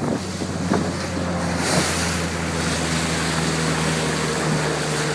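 Boat engine running with a steady low hum, under the rush of water and wind on the microphone; the rushing hiss grows louder a couple of seconds in.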